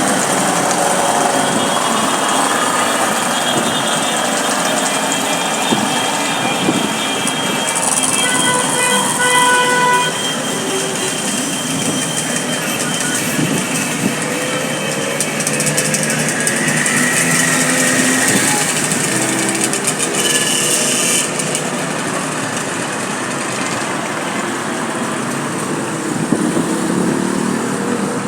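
Loud street din of vehicles and horns sounding over one another, with a horn blast standing out about eight to ten seconds in.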